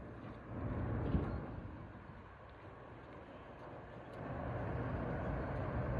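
Low engine rumble with a steady low hum, dying down in the middle and swelling again from about four seconds in.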